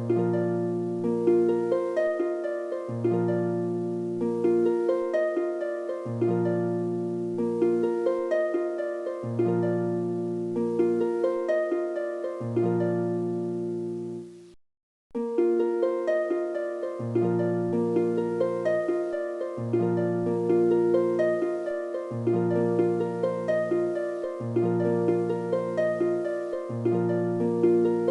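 Background music: a gentle plucked-string tune over a bass figure that repeats about every three seconds. It cuts out for a moment about halfway through, then starts over.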